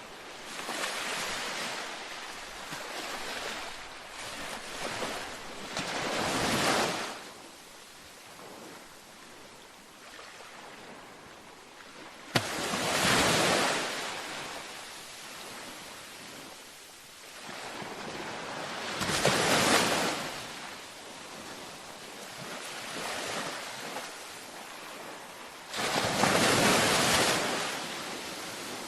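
Ocean waves breaking on a beach: four surges of rushing water, one every six or seven seconds, each swelling and then washing away. The second and last waves come in abruptly, with a sudden crash.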